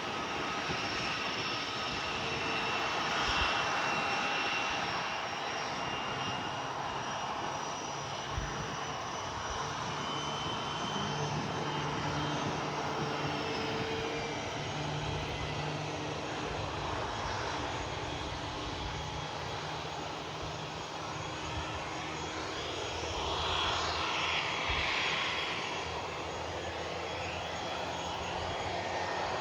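Airliner engines running with a steady whine over a broad rushing noise, swelling slightly near the end.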